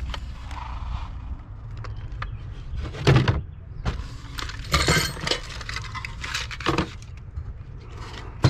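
Metal tool sockets being handled and set down, giving several sharp clinks and clatters over a low hum.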